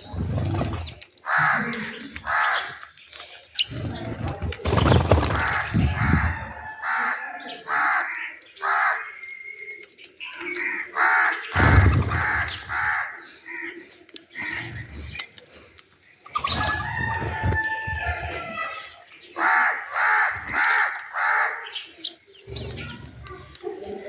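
Small birds calling in quick runs of short, repeated notes, with sparrow-like chirps, and wings flapping as doves and sparrows take off and land.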